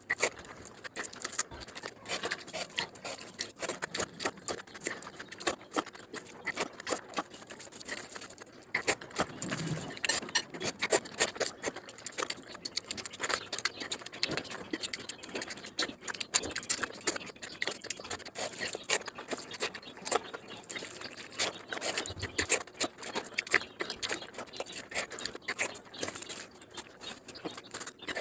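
Close-miked eating by hand: wet chewing of mouthfuls of biryani and chicken, with lip smacks and a dense, irregular stream of small clicks and squelches.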